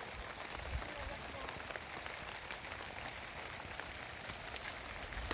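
Heavy rain falling steadily, with many separate drops ticking sharply on a hard surface.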